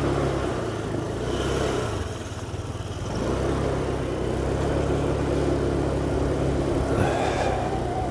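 Small 125cc motorcycle engine running while being ridden, with road and wind noise; the engine note drops briefly about two seconds in, then runs steadily again.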